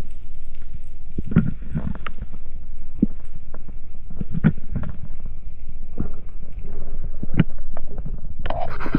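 Muffled underwater water noise picked up by a submerged action camera, a low rumble with scattered dull knocks. Near the end a brighter burst of splashing and gurgling sets in.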